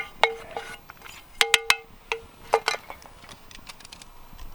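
Metal utensil clinking against a metal camping pan, a series of sharp clinks that ring briefly, with three in quick succession about a second and a half in and two more a second later.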